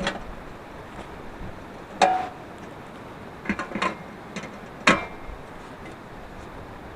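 Several sharp knocks and clinks, about five in all, the one about two seconds in ringing briefly like struck metal, over a steady background hiss.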